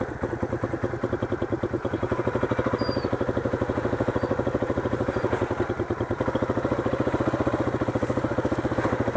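Motorcycle engine running at low, fairly steady revs with an even pulsing beat, as the bike tries to pull away on slippery mud.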